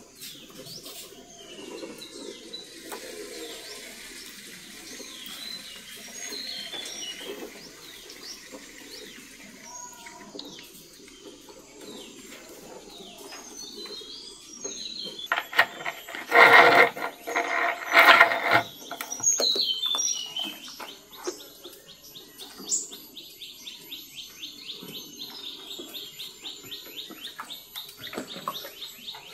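Birds chirping and calling, with two louder calls about two-thirds of the way through and a fast, even trill near the end.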